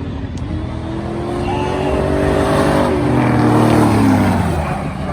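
Two drag-racing cars, a Ford Crown Victoria and a Chevy Blazer, run at full throttle side by side. The engine pitch climbs, is loudest about three to four seconds in, then drops away.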